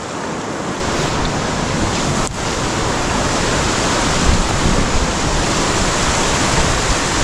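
River rapids rushing, a steady loud wash of fast-flowing water, with a brief dip about two seconds in.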